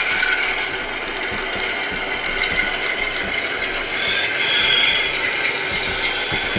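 LokSound V5 sound decoder in a Bachmann Class 47 model locomotive playing its simulated wheel flange squeal through the model's small speaker: high squealing tones over a steady mechanical running noise, strongest about four seconds in.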